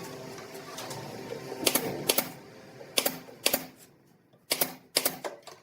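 Hammering on wood: three pairs of sharp knocks, about a second and a half between pairs, each blow ringing briefly.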